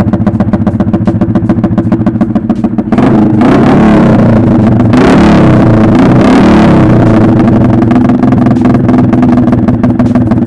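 Motorcycle with an aftermarket SC Project exhaust pipe idling with an even, pulsing beat, revved hard about three seconds in and held high for a few seconds, then dropping back to idle. The owner suspects the pipe is a cheap counterfeit.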